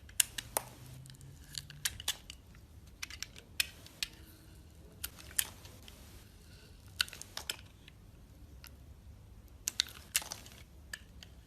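Dry soap crunching, with irregular crisp crackles and snaps and a few sharper ones standing out.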